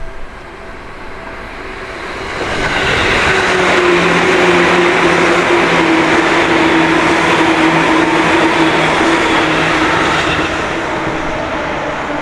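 A train passing close by. It builds over a couple of seconds, stays loud for about seven seconds, then eases off, with a steady whine running through it.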